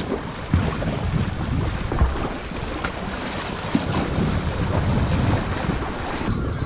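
Wind buffeting the microphone over sea water, with waves and splashing against a sea kayak. The high hiss drops off suddenly about six seconds in.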